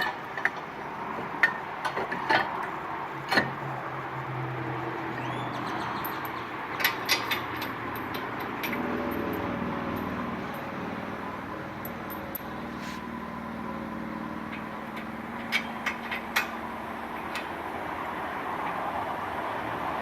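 Workshop work noise: scattered sharp clicks and metallic knocks over a steady hum, with a low drone through the middle.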